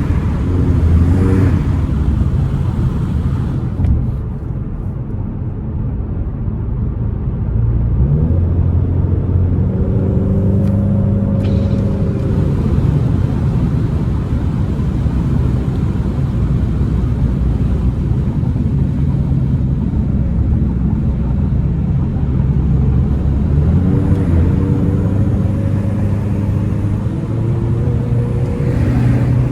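Turbocharged Ford Mustang engine under way, its pitch rising several times as it pulls through the gears. About 4 seconds in, the sound drops and eases for a few seconds before it picks up again.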